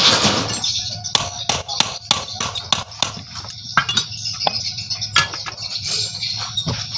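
Irregular metal clinks and knocks of hand tools on motorcycle engine parts being taken apart, a few sharp strikes a second, with a short rush of noise at the start.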